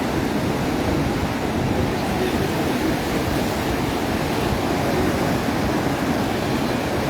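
Atlantic surf washing onto the beach: a steady rushing wash of waves.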